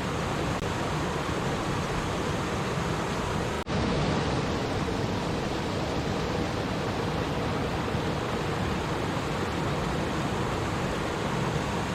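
Steady rushing of water in a flowing stream, with a momentary dip in level a little under four seconds in.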